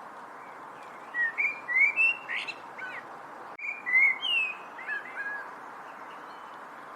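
A songbird singing two short phrases of quick whistled, gliding notes about a second apart, over a steady background hiss.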